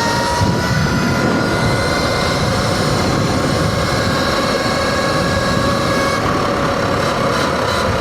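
Surron electric dirt bike's motor whining at a steady pitch while cruising, after a brief rise in pitch as it finishes accelerating, over a low rumble of wind and tyre noise.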